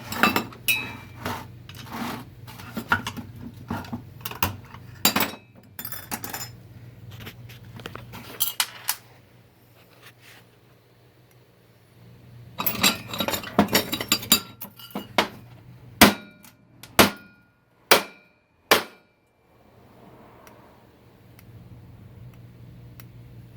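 Metal transmission parts clinking and knocking as they are handled and set down on a workbench, in busy clusters. Near the end come four separate sharp metallic strikes, each ringing briefly.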